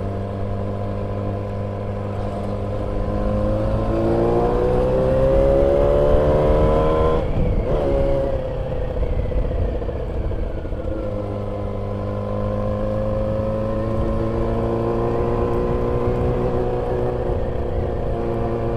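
Yamaha YZF-R6 inline-four engine under way, its pitch climbing as it accelerates for a few seconds, then dropping abruptly about seven seconds in as the throttle is shut. The revs sink for a few seconds and then climb slowly again.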